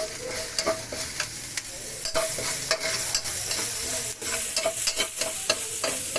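Sliced ginger sizzling in a little hot oil in a metal wok, stirred with a metal spatula that scrapes and taps against the pan several times a second over the steady sizzle.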